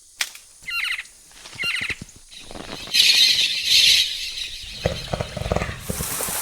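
A bird gives two short, shrill alarm calls. These are followed by a loud rush of rustling and crashing as the animals at the clay lick scatter in alarm at a jaguar.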